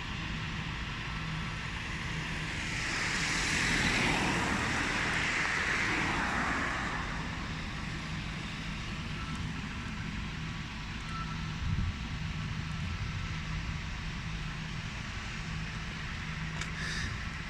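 A vehicle passing by, its noise swelling for a few seconds and fading away, over a steady background hum, with a brief knock later on.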